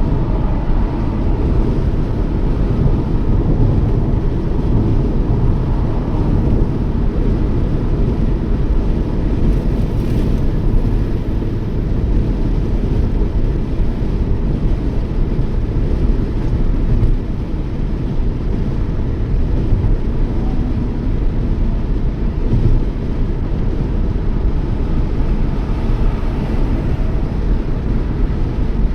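Steady road and engine noise of a Toyota Yaris driving at speed on the highway.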